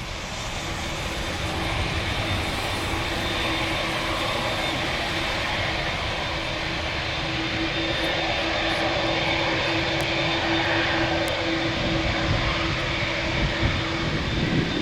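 Boeing 747-400 jet engines at takeoff power, a steady loud rush with a constant droning tone through it, building over the first couple of seconds and then holding.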